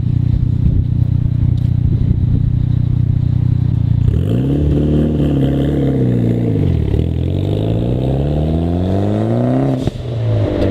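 Car engine idling steadily, then about four seconds in it revs up and falls back, then pulls up in one long rising sweep as the car accelerates away, with a sudden drop in pitch near the end at a gear change. The exhaust note is described as sounding really good.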